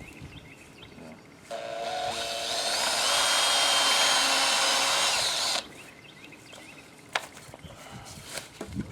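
Power drill boring a pilot hole into a wooden framing board with a small bit, to keep the board from splitting when it is screwed. The motor spins up with a rising whine, runs steadily for about four seconds, then cuts off suddenly.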